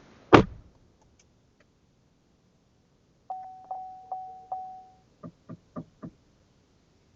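A car door shutting with one loud thump, then a steady electronic chime that sounds four times in about two seconds, then four short knocks.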